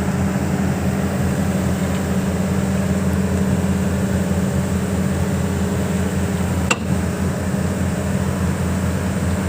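Hitachi 210 excavator's diesel engine running steadily. A single sharp knock comes about two-thirds of the way through.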